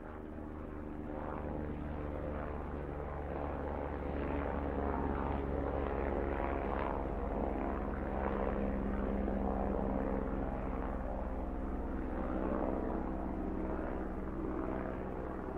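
Toy helicopter's rotor sound: a steady whirring drone with a low hum, swelling a little over the first few seconds and then holding level.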